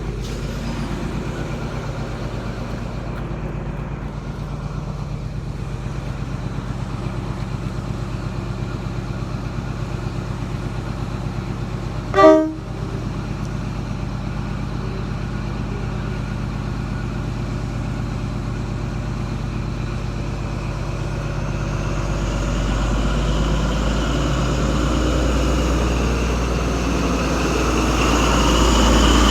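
XPT diesel power cars running steadily at the platform, with one short horn toot about twelve seconds in. From about twenty seconds in the engines throttle up and grow louder, their pitch rising, as the train pulls away.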